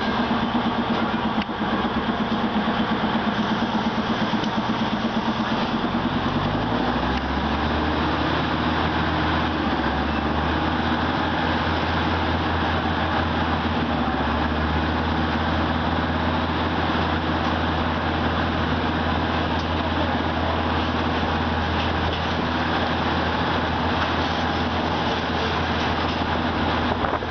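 Train running along the line, with steady rolling noise and an engine hum whose pitch steps down about seven seconds in, then holds steady.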